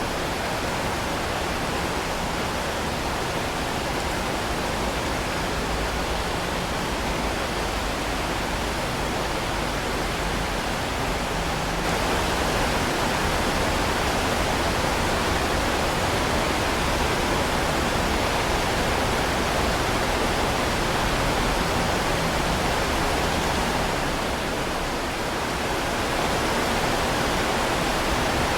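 Heavy rain falling in an even, steady hiss, a little louder from about twelve seconds in, with a brief dip near the end.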